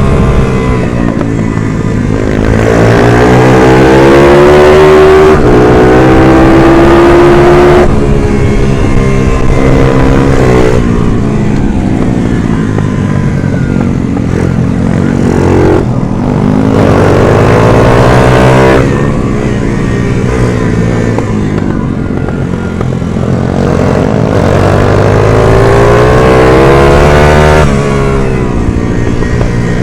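A 140cc minibike engine racing: it revs up hard, rising in pitch, then drops back sharply, over and over, about every three to five seconds.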